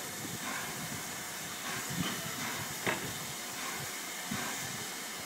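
Steam locomotive 60163 Tornado, a Peppercorn A1 Pacific, giving off a steady hiss of steam, with a few faint knocks.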